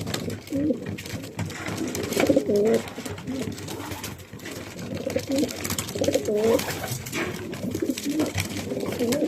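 Racing pigeons cooing in the loft, several low coos overlapping and repeating, with a scatter of small clicks and taps throughout.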